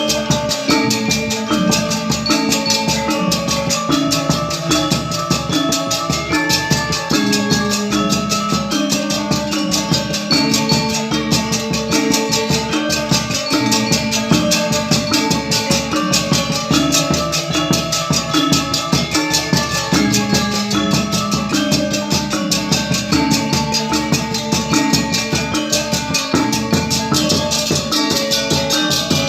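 Balinese gong gamelan ensemble playing: bronze metallophones and gongs struck in fast, dense patterns over long held low tones.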